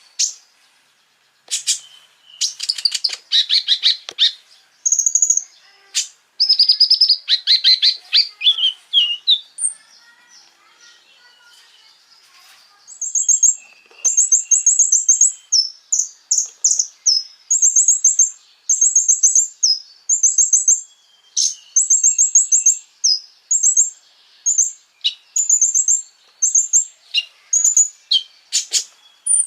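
Konin, a small songbird, singing: two rapid trills that fall in pitch, a short pause, then a long series of brief, very high trilled phrases repeated about once a second.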